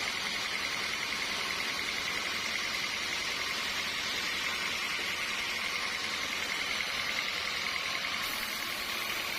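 Sawmill saw machinery running steadily: an even hiss with a fast-fluttering high whine that holds level throughout.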